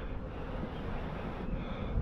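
Low, steady wind rumble on the microphone.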